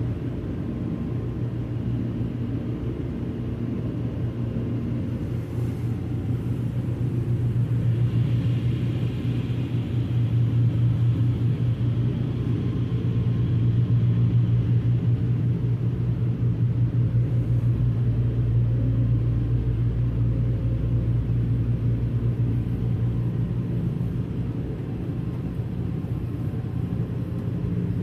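Automatic car wash running: a steady low rumble, with a faint higher hiss for several seconds about a third of the way in.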